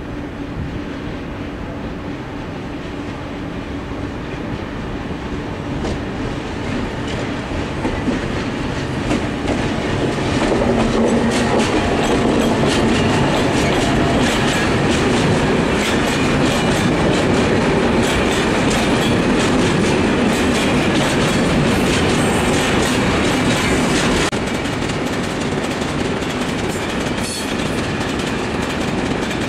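Freight train of container and swap-body wagons passing close by, its wheels clattering steadily over the rails. It grows louder over the first ten seconds, stays loud as the wagons roll past, and eases a little about twenty-four seconds in.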